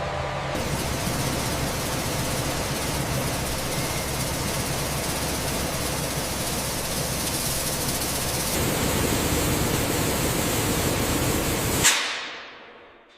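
Loud, steady noise of running industrial machinery with a low hum beneath, changing character twice. A single sharp hit comes near the end, after which the sound dies away.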